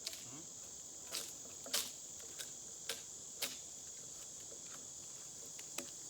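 Steady high-pitched insect chorus, with about six sharp, separate knocks at uneven intervals, the loudest a little under two seconds in.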